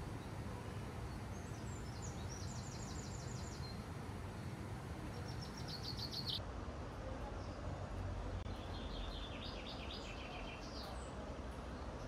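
Songbird singing in three bouts of rapid, evenly repeated high notes, over a steady low outdoor rumble.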